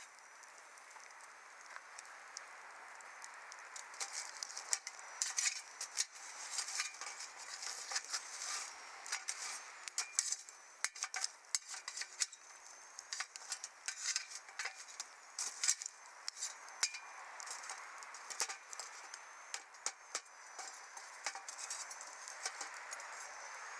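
Wood fire burning, crackling and popping over a steady hiss, the pops coming thickest through the middle.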